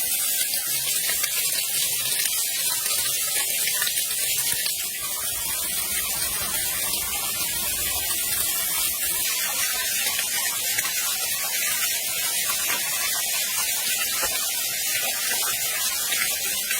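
Steady rushing hiss of a waterfall's falling water, even and unbroken.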